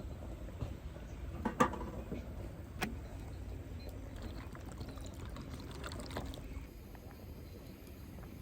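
Liquid pouring, with two sharp clinks a little over a second apart in the first third, over a steady low rumble.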